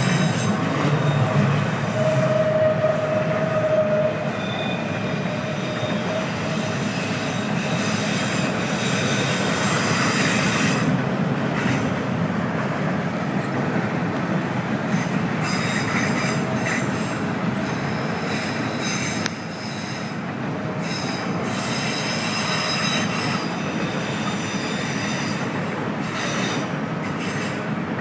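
Long freight train rolling past close by, its wheels rumbling on the rails with screeching wheel squeal that comes and goes in thin high tones.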